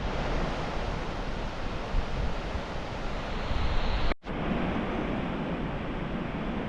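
Steady rushing noise, broken by a brief dropout about four seconds in.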